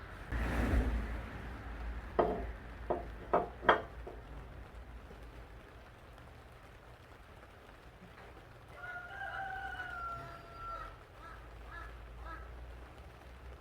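A rooster crowing: one long call about nine seconds in. Earlier, a short burst of noise is followed by four sharp knocks between two and four seconds in, and these knocks are the loudest sounds.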